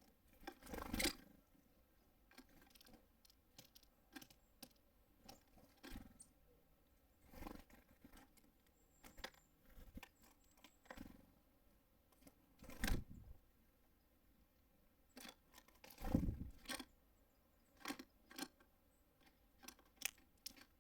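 Small birds at a feeder close to the microphone: irregular taps, knocks and scrabbling as they land on it and peck at seed, the loudest with a dull thud. Two brief faint high calls come about nine and ten seconds in.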